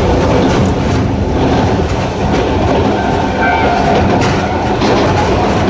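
Sangi Railway Hokusei Line narrow-gauge electric train with nose-suspended traction motors running, a steady low rumble with the wheels clicking over rail joints now and then. A faint high tone rides over it in the middle.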